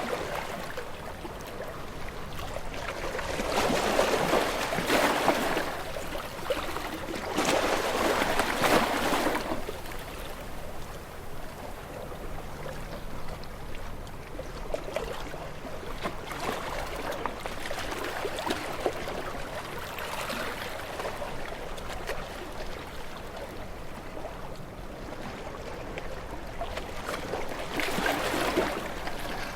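Sea waves washing in against rocks, a steady rush that swells into louder surges about four and eight seconds in and again near the end.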